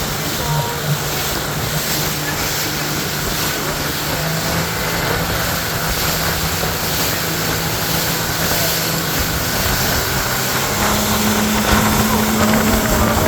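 Speedboat engine running steadily under heavy wind and water rush, its pitch stepping up about eleven seconds in as the boat speeds up.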